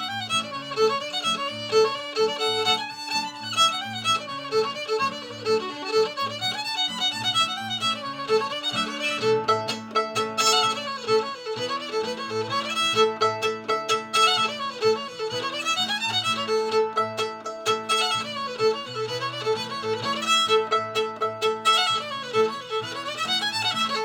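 Solo fiddle playing a bluegrass fiddle tune, the bowed melody running on without a break.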